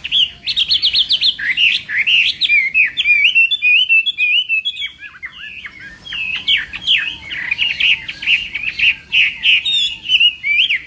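Chinese hwamei singing a continuous, rapid run of varied whistled notes and up-and-down glides, with a short softer stretch about halfway through.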